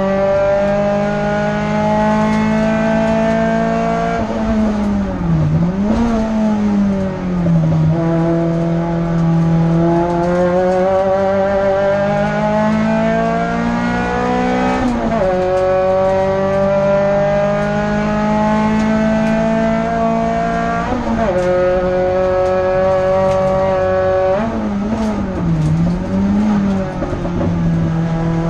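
Renault Clio F2000 hill-climb car's four-cylinder engine at full throttle, heard from inside the cabin: the revs climb steadily and then drop sharply at each upshift, several times, with two short dips where the driver lifts for a corner.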